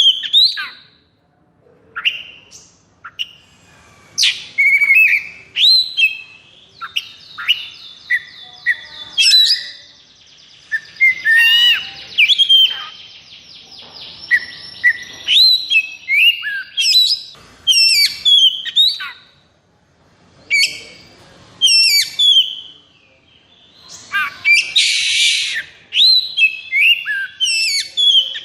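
Oriental magpie-robin (kacer) singing a fast, nearly unbroken song of varied whistled notes sweeping up and down. A quick rattling trill comes about eight seconds in, and a harsh rasping burst comes near the end.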